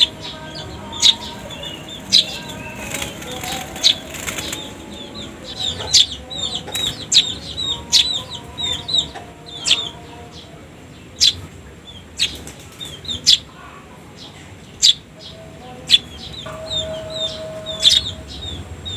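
Young Eurasian tree sparrows (fledglings) chirping over and over in short, quick notes. Sharp clicks come about once a second.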